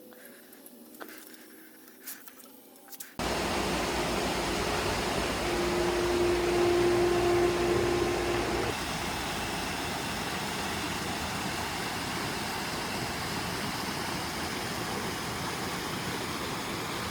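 Faint clicks, then about three seconds in a pool pump switches on and a steady rush of water and motor noise starts through the sand filter's plumbing. A steady hum rides over it for a few seconds, then stops, leaving an even rush of water.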